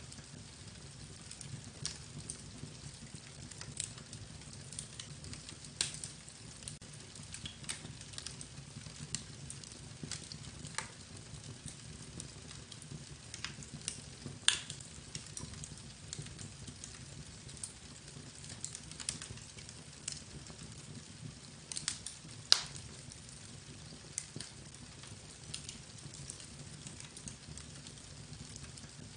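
Irregular crackling: scattered sharp clicks and pops, two of them much louder about halfway through and about three-quarters of the way through, over a steady low hum.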